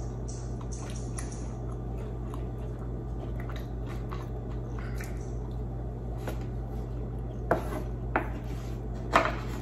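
Close-up mouth sounds of chewing grilled squid, with small wet clicks over a steady low hum. Near the end, three sharp clicks as a wooden spoon knocks against the wooden serving board.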